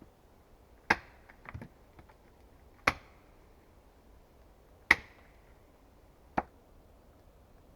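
Axe chopping wood: four sharp strikes roughly two seconds apart, the last one lighter, with a few small knocks after the first.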